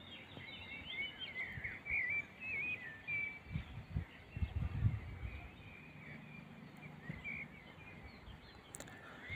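Small birds chirping and warbling in quick, gliding phrases, busiest in the first few seconds, over outdoor background noise, with a few low thumps about four to five seconds in.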